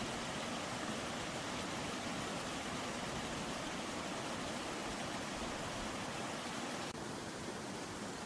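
Steady rushing of running water with no distinct events. About seven seconds in, it changes abruptly and becomes a little quieter and thinner in the low range.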